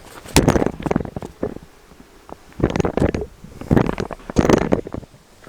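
Close rustling and rubbing noise in four loud bursts, the first about a second long and the rest shorter, like cloth or gear being handled right against the microphone.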